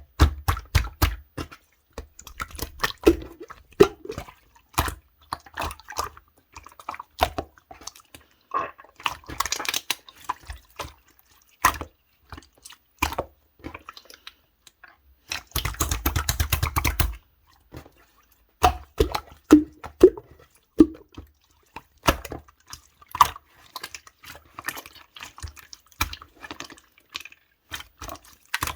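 Clear slime being squished and pressed by hand, making irregular wet clicks and pops of trapped air bubbles. There are denser runs of crackling pops around nine to ten seconds in and again from about fifteen and a half to seventeen seconds.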